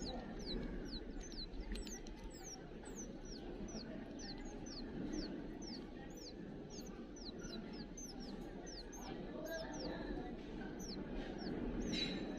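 A bird calling over and over: short high-pitched notes, each falling in pitch, about two to three a second, over a low steady background noise.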